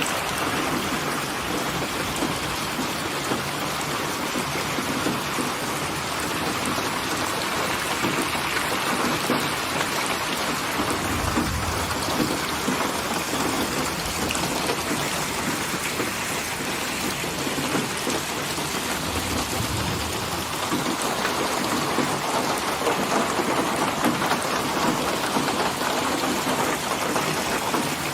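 Steady rain falling, with two brief low rumbles of distant thunder about eleven and nineteen seconds in.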